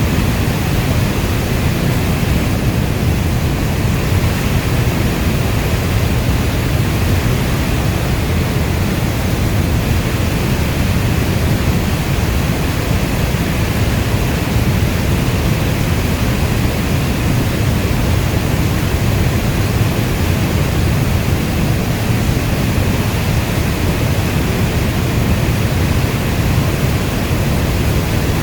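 Steady, even rain noise, heaviest in the low end like brown noise, with no single drops or thunder standing out.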